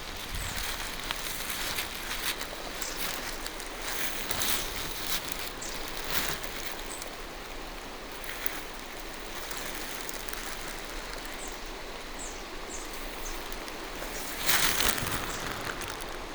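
Steady rain falling through forest trees. Now and then there is a louder rustle of a walker moving through wet undergrowth, loudest near the end. A few faint high bird chirps sound about three-quarters of the way through.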